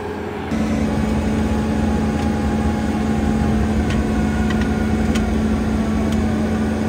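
Bobcat T86 skid steer running steadily with a constant engine hum, which jumps louder abruptly about half a second in.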